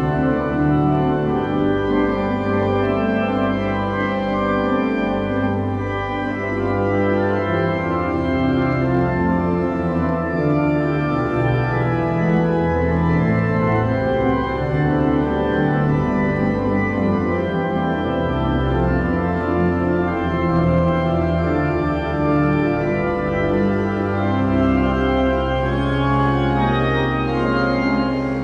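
Church organ playing the closing voluntary after the dismissal: full held chords that move every second or so over deep sustained bass notes.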